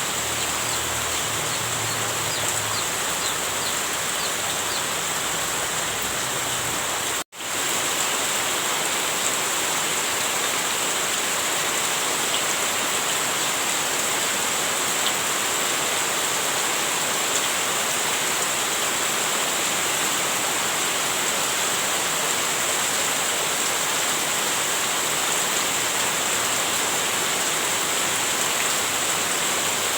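Heavy rain falling steadily, a dense even hiss. It cuts out for a split second about seven seconds in, then resumes.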